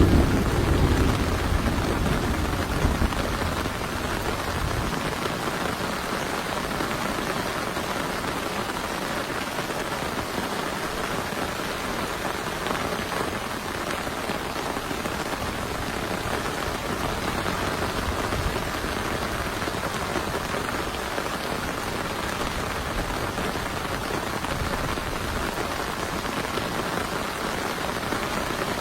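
Heavy rain falling steadily, with the low rumble of thunder dying away in the first few seconds.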